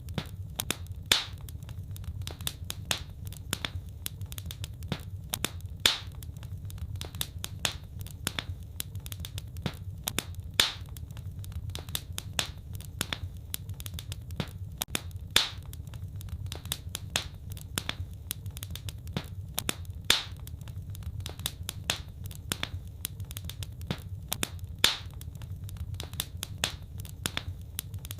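Wood fire burning in a fireplace, crackling steadily over a low rumble of flame, with a louder pop about every five seconds.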